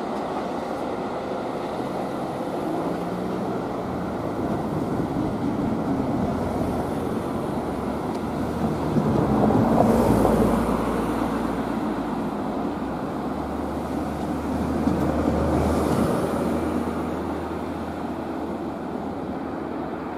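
Keihan 2200-series electric train running over a steel truss bridge: a steady rumble that swells about halfway through and again a few seconds later, then slowly fades.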